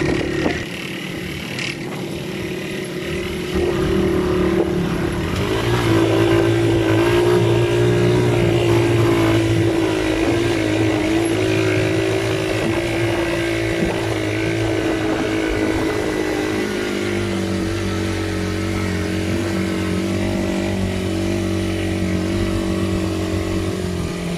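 Motor vehicle engine running steadily while driving, its pitch and load shifting a few times.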